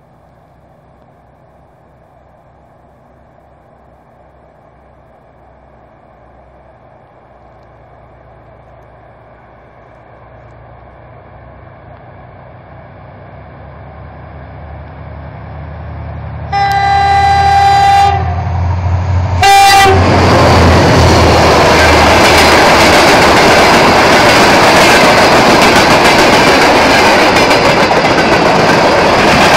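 A 2TE10M twin-section diesel locomotive approaches with a freight train, its two-stroke diesel engines growing steadily louder. A bit over halfway it sounds its horn: one blast of about a second and a half, then a short second one. The locomotive then passes close by, and the tank wagons roll past with loud, steady wheel-on-rail noise.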